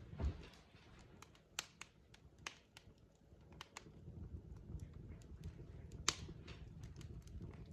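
Wood fire in a fireplace crackling: irregular sharp pops and snaps over a low steady rumble, with a louder pop near the start and another about six seconds in.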